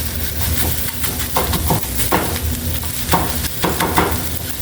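Eggs sizzling in a hot frying pan, with a utensil stirring and scraping against the pan in short, irregular strokes.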